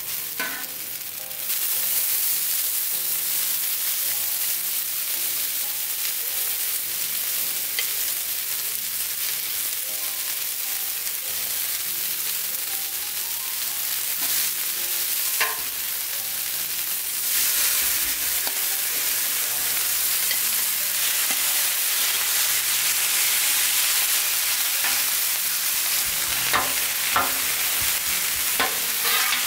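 Food sizzling hard on a hot Blackstone flat-top griddle as noodles, vegetables and raw meat are laid onto the steel with tongs. The sizzle jumps up about a second and a half in and grows again a little past halfway, with a few sharp clicks near the end.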